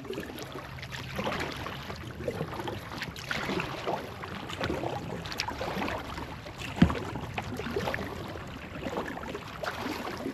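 Kayak paddling: paddle blades dipping, with water splashing and dripping in an uneven rhythm. A single sharp knock comes about seven seconds in.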